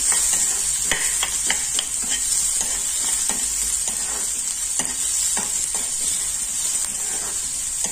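Chopped onions sizzling in hot oil in a kadai while a metal spoon stirs them, with irregular scrapes and knocks of the spoon against the pan.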